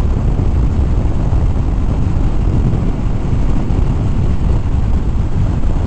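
Harley-Davidson Fat Bob's V-twin engine running at a steady cruise, with wind rushing over the microphone.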